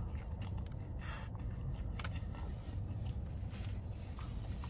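A person chewing a mouthful of sandwich, with a few faint soft mouth clicks, over a steady low hum inside a car.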